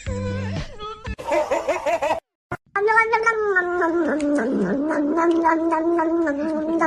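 A cat yowling in one long, drawn-out call of about four seconds, wavering in pitch. It starts after an abrupt break about two and a half seconds in.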